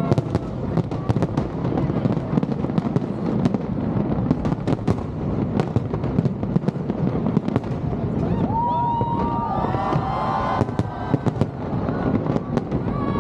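Fireworks display: a dense, continuous run of bangs and crackles from bursting shells over a steady rumble, with a short spell of pitched, wavering tones near the middle.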